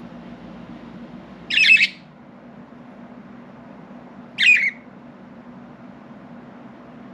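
Pet budgerigar giving two short, harsh squawking calls about three seconds apart, over a steady low hum.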